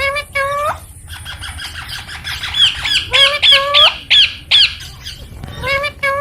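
Baby ringneck parakeet squawking: two calls at the start, then a quick run of short arching calls, about three a second, and a few more near the end.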